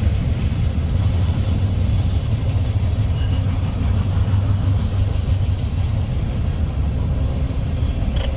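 Freight train of tank cars rolling past, a steady low rumble.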